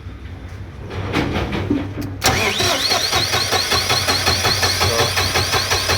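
Diesel generator engine being cranked by its electric starter: the starter engages suddenly about two seconds in, and the engine turns over with a steady rapid beat and a high whine from the starter. It cranks but does not fire, the no-start fault being diagnosed.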